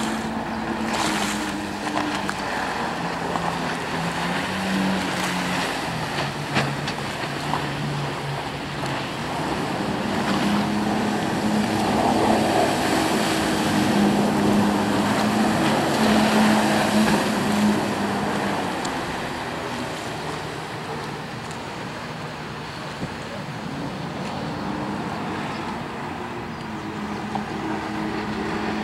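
Jet ski engine running out on the water, its pitch stepping up and down with the throttle. It grows louder in the middle as it comes closer, then fades.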